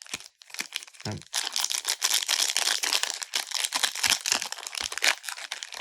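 Crinkling and rustling of plastic packaging as Pokémon trading cards are handled, a dense run of crackles from about a second in.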